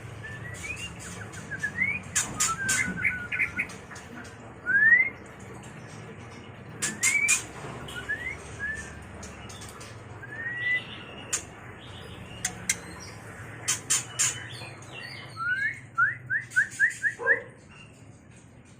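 White-rumped shama (murai batu) in breeding condition calling: short rising whistles mixed with sharp clicks, then a quick run of about six rising notes near the end.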